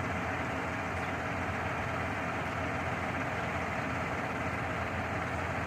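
A delivery truck's engine running steadily at idle.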